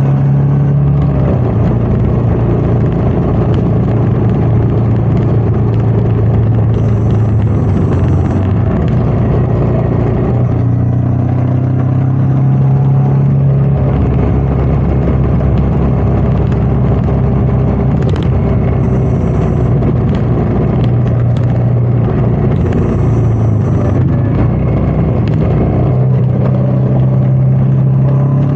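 Royal Enfield Meteor 350's single-cylinder engine running under way, its note stepping up and down several times with throttle and gear changes. Wind rushes over the microphone throughout.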